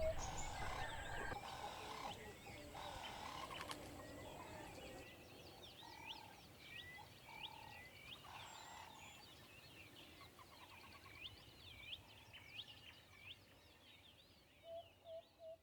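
Faint poultry and bird calls: a long run of short, high chirps, a few lower calls in between, and a quick series of evenly repeated notes starting near the end.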